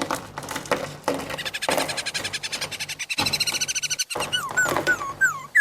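Dubbed animal call sound effect: a fast pulsing chatter with many overtones, then, in the last second or so, short calls falling in pitch, about three a second.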